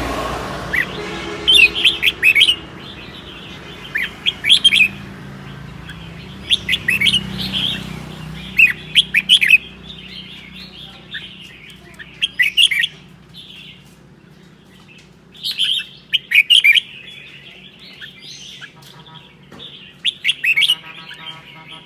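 Red-whiskered bulbul singing short, loud song phrases in the 'ché' style, one burst every one to three seconds, over a low steady hum that fades out about eight seconds in.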